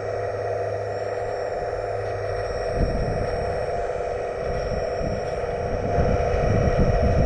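A 1/15 scale RC hydraulic construction machine running with a steady whine, joined from about three seconds in by irregular low rumbles and knocks as it works.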